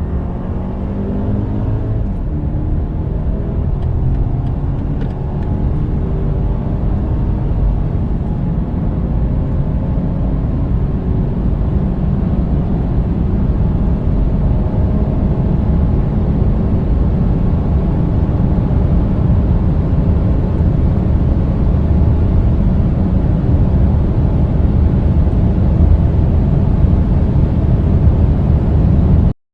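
A turbocharged four-cylinder petrol sedan accelerating hard to high speed: the engine note climbs through the gears in the first couple of seconds, then gives way to a loud, steady mix of engine, tyre and wind noise that grows slowly louder and cuts off suddenly near the end.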